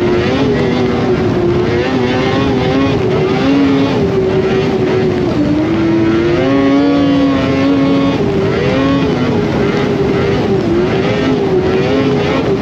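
Polaris Indy 600 two-stroke snowmobile engine running under way, its pitch rising and falling as the throttle is worked, over a steady rushing noise.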